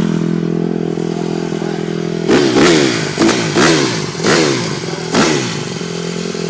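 Dirt bike engine idling steadily, then blipped hard about six times in quick succession from a little over two seconds in, each rev rising and falling sharply.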